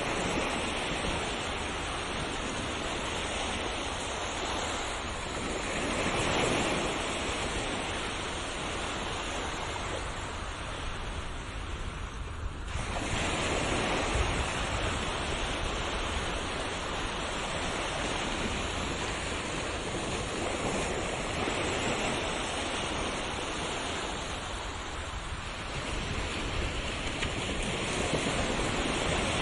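Ocean waves washing onto a shore, a continuous surf noise that swells and eases every several seconds.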